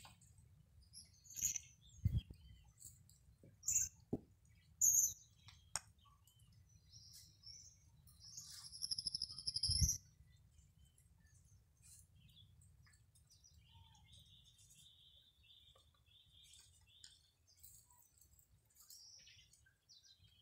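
Small birds chirping in short, high calls, with one longer trilled call about nine seconds in and a thin steady high note later on. A low rumble of wind on the microphone runs underneath, with a couple of soft knocks.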